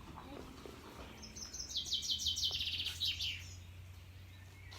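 A songbird singing one rapid trilling phrase, starting about a second in and stepping down in pitch over about two seconds.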